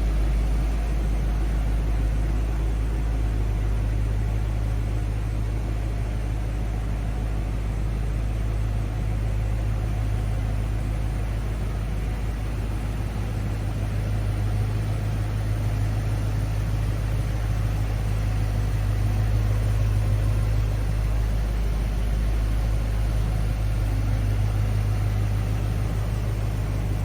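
1972 GMC 3500 pickup's engine running with a steady, even low rumble.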